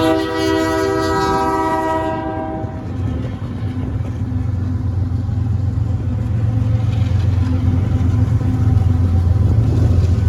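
Union Pacific diesel locomotive's air horn sounding a chord of several tones, which cuts off about two and a half seconds in. It gives way to the steady low rumble of the train, which grows louder.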